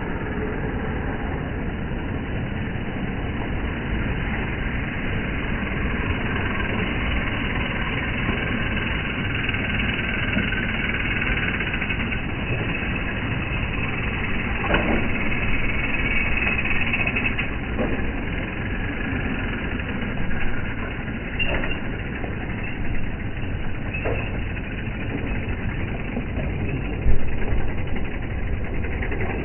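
A train running with a steady mechanical rumble, with a few brief high-pitched tones in the second half.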